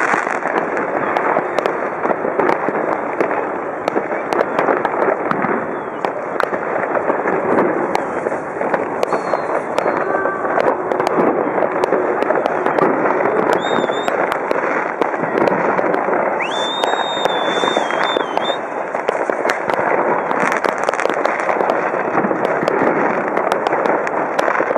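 Fireworks and firecrackers going off all around without a break: a dense, continuous crackling and banging. A high whistle rises and holds for a couple of seconds about two-thirds of the way through.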